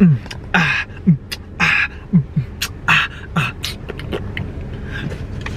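Hip-hop style percussive beat: deep kicks that drop in pitch, alternating with sharp snare- and hi-hat-like hits.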